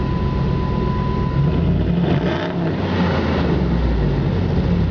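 A 2006 Dodge Ram 1500's 5.7-litre Hemi V8 running through a custom dual exhaust: a deep, steady rumble that rises as the engine is revved about two seconds in.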